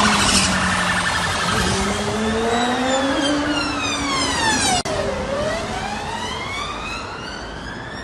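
Emergency vehicle siren wailing, its pitch sliding slowly up and down, with a brief break about five seconds in.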